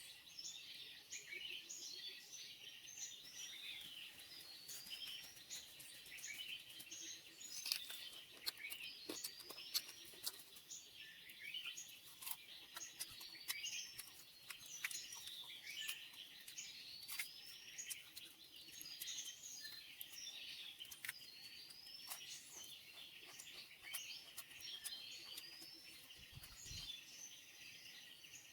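Rainforest bird chorus: many high chirps overlapping, with one call, a short rising whistle, repeated every second or so. Scattered light clicks sound throughout.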